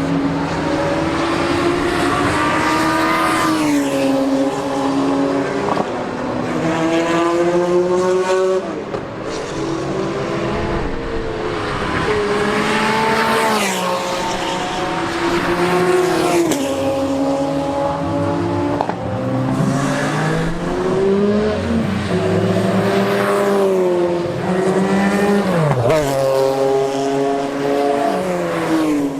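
Unsilenced race car engines at high revs on track, each climbing in pitch and dropping sharply at upshifts, with downshift blips. More than one car is heard at once as they pass.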